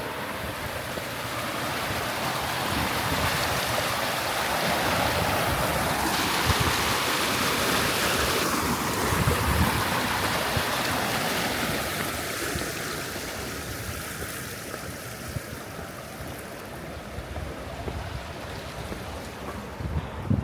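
Rushing stream water, swelling to its loudest about halfway through and then fading, over a low, gusty rumble of wind on the microphone.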